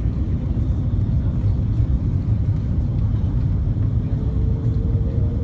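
Steady low rumble of airliner cabin noise: an Airbus A330-300's engines and airflow heard from inside the cabin. A faint, slightly rising whine joins about four seconds in.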